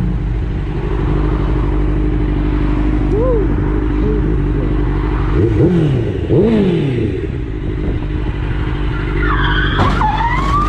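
Steady drone of a road vehicle driving, with a few short rising-and-falling pitched sounds in the middle and a sharp knock just before the end.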